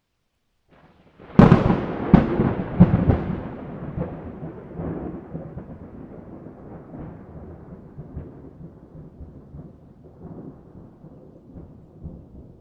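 A thunderclap breaking out of silence: a sharp crack about a second in, a few more loud cracks in quick succession, then a long rumble that slowly dies away.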